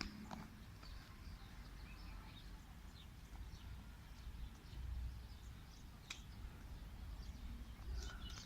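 Faint, scattered short bird chirps over a steady low rumble, with one sharper click about six seconds in.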